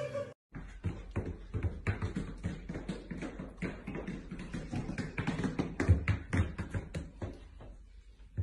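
Huskies wearing dog boots stepping on a hard floor and stairs: a rapid, irregular run of taps and soft thuds from the boot soles, with a louder thump about six seconds in.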